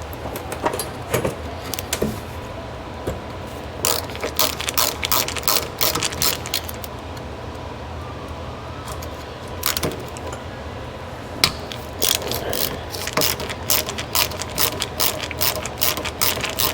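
Hand ratchet clicking in quick runs as rusty body bolts are worked loose, with a pause between bursts and a steady low hum underneath.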